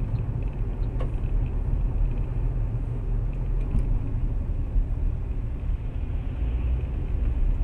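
Steady low rumble of a car driving: engine and road noise picked up by a dashcam, with a faint click about a second in.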